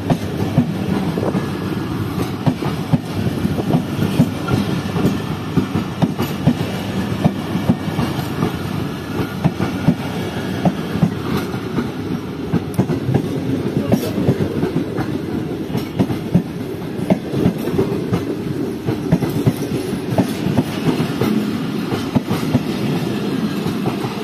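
Passenger coaches of the Tezgam Express rolling past at low speed as the train departs, a steady rumble with wheels clicking over rail joints.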